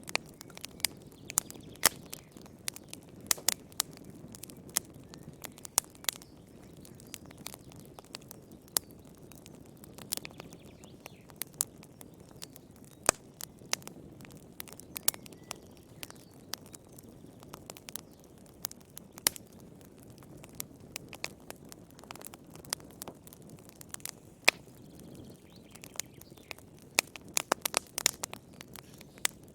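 Wood fire burning in a fireplace: a low steady rush of flames with irregular sharp crackles and pops of burning firewood, coming thick and fast near the end.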